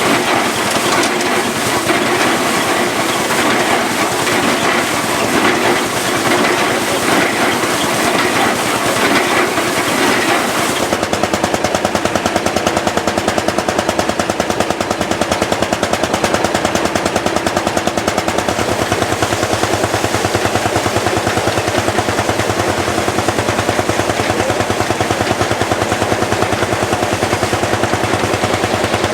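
A belt-driven threshing machine clattering at work for about the first third. Then it changes abruptly to a Lanz Bulldog single-cylinder hot-bulb two-stroke engine running, with a fast, even, machine-gun-like train of exhaust beats.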